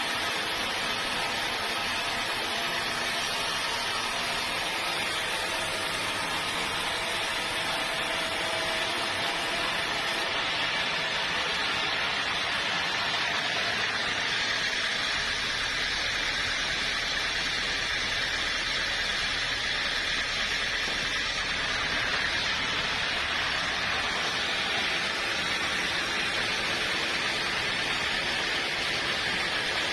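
Sawmill machinery running with a steady rushing noise.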